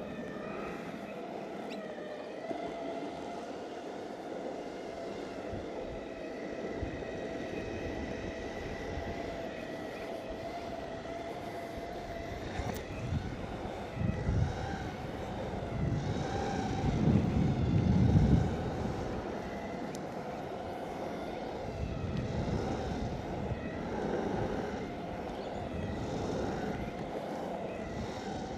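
Exway Flex Pro V3 electric skateboard riding: wheels rolling on asphalt with a steady electric-motor whine. A louder low rumble builds a little past halfway and peaks a few seconds later.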